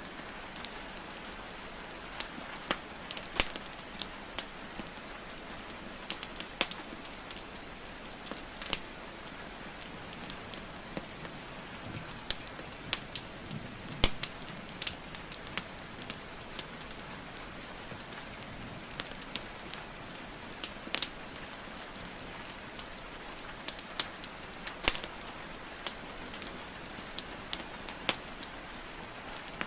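Wood fire crackling and popping at irregular intervals over a steady hiss of rainfall, with a sharper pop about halfway through.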